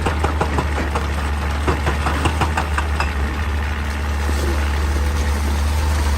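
Excavator's diesel engine running steadily, with a rapid series of sharp knocks, several a second, that dies away about halfway through.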